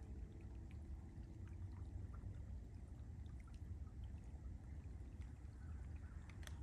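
Wet, slushy snow sloshing, with a trickling, pouring water sound and scattered small clicks over a steady low rumble.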